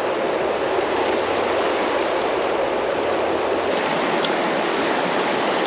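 Creek water rushing steadily over rocks, a loud, even hiss with no breaks.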